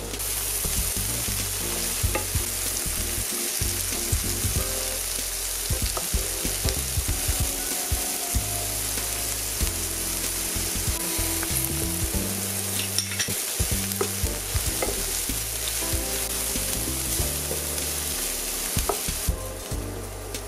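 Sliced mushrooms, red onion and peppers sizzling in hot oil in a nonstick frying pan, with a steady hiss and scattered knocks and scrapes from a wooden spatula stirring them. The sizzle falls away near the end.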